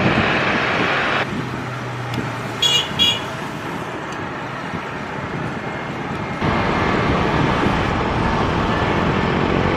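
Steady traffic and aircraft noise beside an airport. The noise drops abruptly about a second in and comes back up abruptly near two-thirds of the way through. Two short high-pitched toots sound close together a little before the middle.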